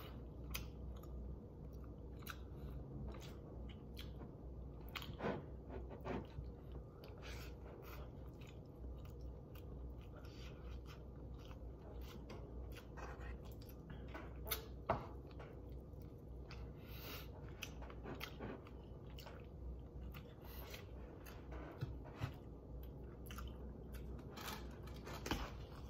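A person chewing chicken close to the microphone: a run of irregular wet mouth clicks and smacks, with a few louder clicks along the way.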